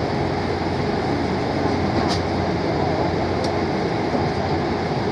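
Steady cabin noise of a Boeing 777-300 heard from a window seat, its engines running at low power with the cabin air conditioning, a constant rumble and hiss with a faint steady hum and a couple of faint ticks.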